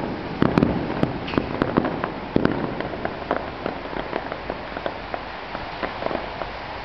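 Fireworks crackling: a firework burst of crackling stars gives off many rapid sharp pops, dense at first, then thinning out and growing fainter over the last few seconds.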